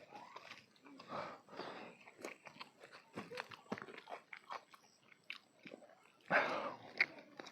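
Close-miked chewing and crunching of food: irregular wet clicks and crackles of a mouth biting and chewing, with one louder noisy burst a little after six seconds in.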